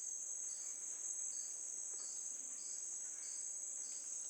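Insect chorus of crickets: a steady high shrill with a second chirp repeating about every 0.7 seconds.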